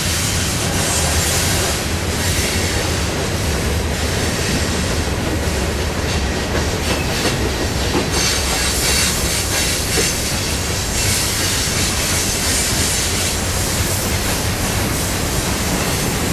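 A CSX mixed freight train's cars rolling past: tank cars, boxcars and hoppers, with a steady rumble and rattle of steel wheels on the rails.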